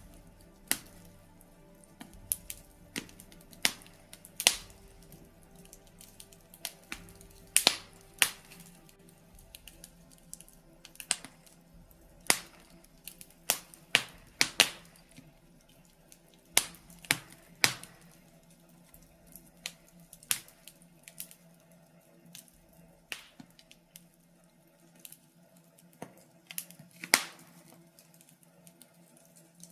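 Birch logs burning in a fireplace, crackling with irregular sharp pops and snaps, a handful of them much louder than the rest, over a low steady background.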